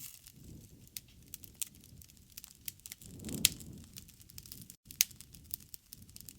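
Wood fire crackling, with irregular sharp pops over a low, soft rumble. The loudest pop comes about halfway through, and another sharp one comes a second and a half later.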